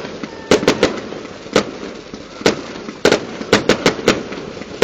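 Fireworks going off: a string of sharp, irregular bangs and cracks, some coming in quick clusters of two or three.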